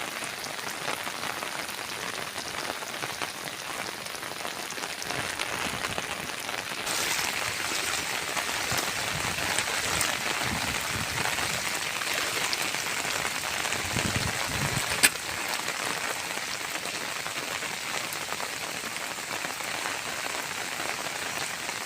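Heavy rain falling steadily, growing a little stronger about a third of the way in, with one sharp click about two-thirds through.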